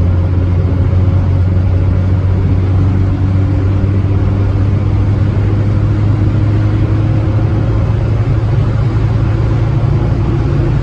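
Austin Allegro's A-series four-cylinder engine running at a steady cruise, a low drone with a faint steady whine above it.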